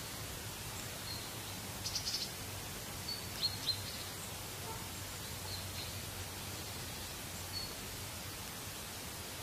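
Steady outdoor background noise with a low hum, broken by short, high bird chirps. There is a quick flurry about two seconds in, two sharp chirps a second and a half later, and a few fainter ones after that.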